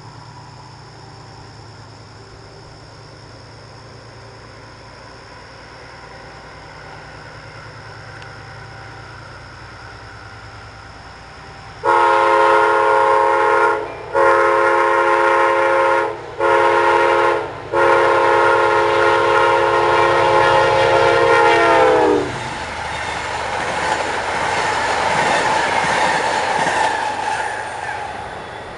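Approaching train's engine rumble, then a locomotive air horn sounding the grade-crossing signal: long, long, short, long. The horn's pitch drops as the locomotive passes at the end of the last blast, followed by the rush of the train going by.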